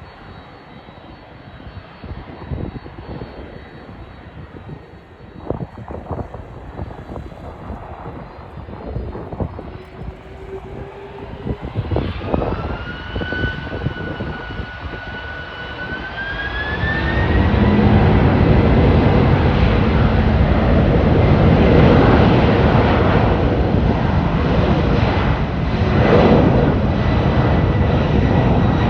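Boeing 767-300ER's twin turbofan engines spooling up, with a rising whine that levels off, then running at takeoff thrust, loud and steady, for the takeoff roll. Gusts of strong wind buffet the microphone before the engines come up.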